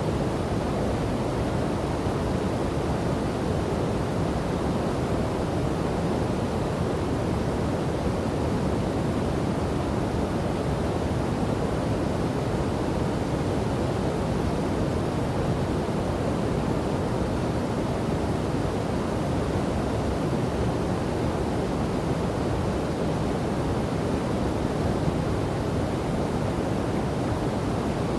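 Steady rushing of a waterfall and river, a deep, even roar of falling and flowing water with no breaks.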